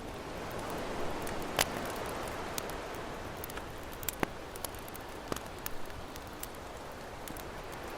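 Campfire crackling, with sharp pops scattered irregularly over the steady wash of ocean waves; the loudest pop comes about a second and a half in.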